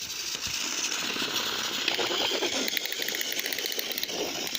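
Battery-powered toy train engines running: small electric motors whirring with gears rattling, a steady buzzy churn as the two engines strain against each other in a strength contest.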